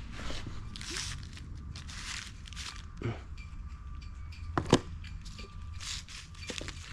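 Scattered light knocks, clicks and rustles of parts and tools being handled, the loudest a sharp double knock about two thirds of the way through.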